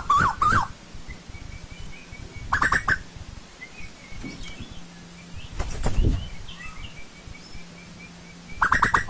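Asian koel calling: a rapid run of wavering notes trails off in the first half second, a short call follows near three seconds and a louder burst comes about six seconds in, with faint high chirps in between.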